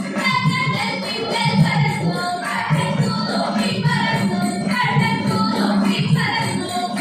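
Ottan thullal song: sung verse over a steady beat of a drum and small hand cymbals (ilathalam) jingling in time.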